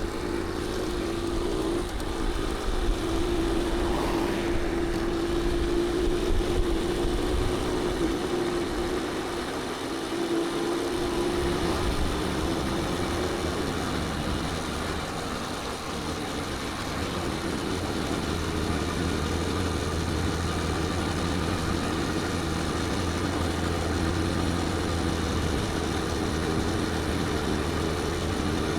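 Motorbike engine running steadily with a constant, slightly wavering hum.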